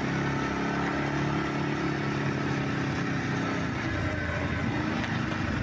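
ATV engine running at a steady pitch, easing off and dropping lower about four seconds in as the machine slows.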